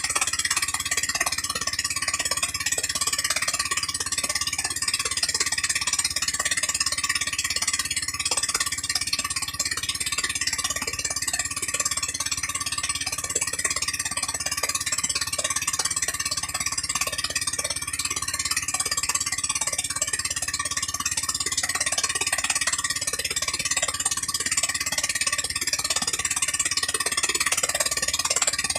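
A 13 hp gasoline engine running steadily at a constant speed, with a fast, even rattle.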